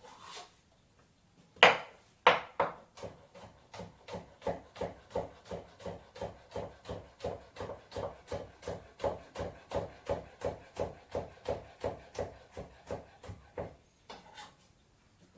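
Knife chopping on a wooden cutting board: two sharp knocks, then a steady run of even chops, about three a second, that stop near the end.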